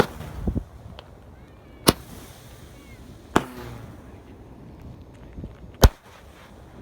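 Fireworks going off: four sharp bangs spaced one and a half to two and a half seconds apart, with a duller thump just after the first.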